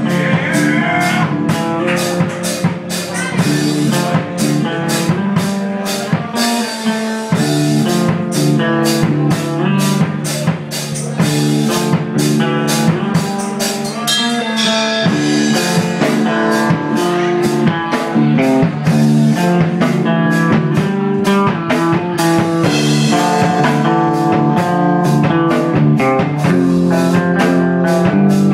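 Live rock band playing loudly: electric guitar riff over a drum kit with steady, closely spaced hits, with no singing.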